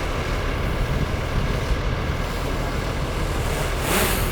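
Heavy diesel engine of earthmoving machinery running steadily with a deep rumble, and a short hiss about four seconds in.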